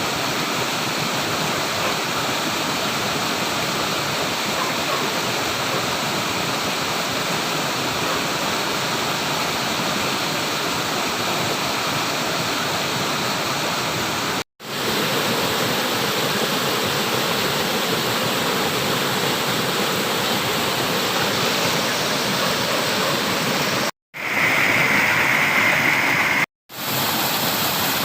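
Flowing water rushing steadily, a continuous even noise. It cuts out briefly and resumes three times: about halfway through and twice near the end. Between the last two dropouts the rush is slightly louder and brighter.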